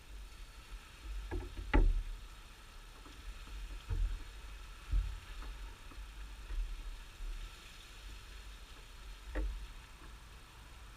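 A few dull knocks and bumps from handling, the loudest about two seconds in and another near the end, over a faint steady background.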